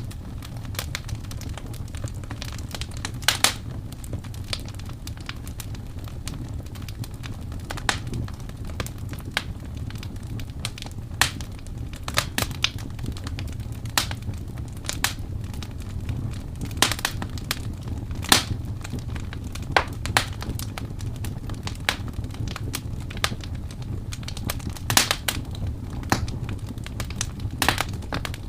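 Wood fire crackling in a fireplace: irregular sharp pops and snaps over a steady low rumble, with a few louder pops.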